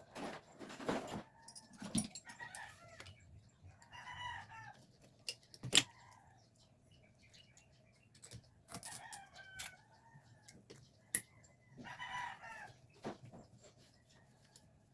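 Chickens calling in the background, three pitched calls each under a second long, with scattered sharp clicks and knocks between them.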